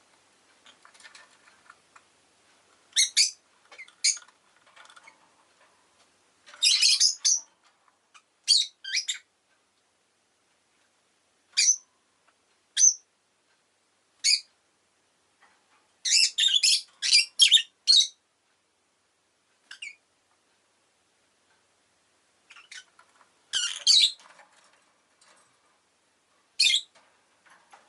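Rosy-faced lovebird calling in short, sharp high-pitched chirps, some single and some in quick clusters, with quiet gaps of a second or more between them.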